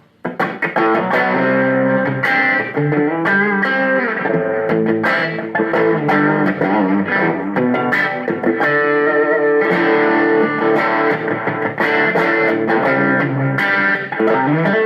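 Electric guitar on its bridge pickup played through a Zoom G3Xn multi-effects pedalboard with an overdrive patch on: a continuous passage of sustained notes and chords, starting about a quarter second in.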